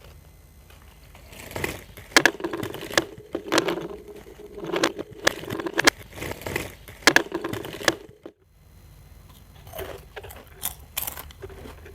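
Crisp, irregular crunches and crackles of a Cornetto ice cream cone being bitten and chewed close to the microphone, dense for several seconds, then a brief break, then sparser crunches.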